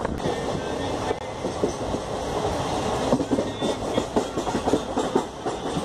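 Passenger train running at speed, heard from beside a moving coach: a steady rumble of wheels on the rails with dense, irregular clicking and rattling.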